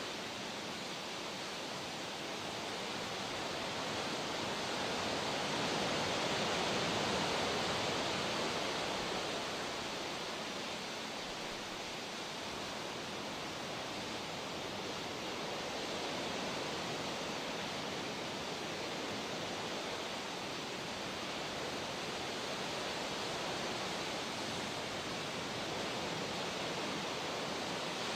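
Steady rushing water noise, swelling slowly to a peak several seconds in and easing off, with gentler rises and falls after.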